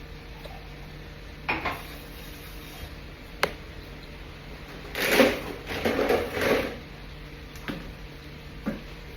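Spoon and dishes clinking and scraping while eating: a few separate knocks, then a longer run of clattering about five seconds in.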